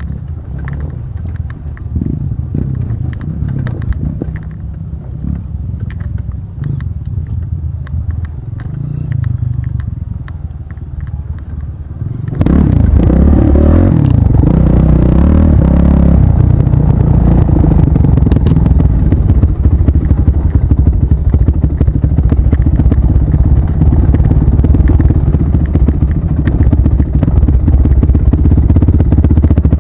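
Off-road trail vehicle engines running over rough ground, with rattling and knocking. About halfway through the sound suddenly becomes much louder and stays loud.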